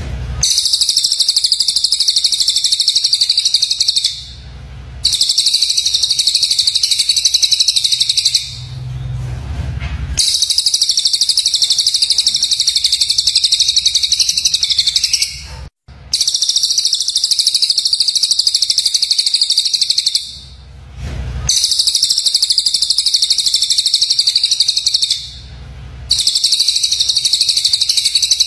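Rapid, harsh, high-pitched songbird chattering of the rough 'tembakan' (shot) kind used as mastering song for murai batu, in dense runs of three to five seconds with short breaks of about a second between them, about six runs in all.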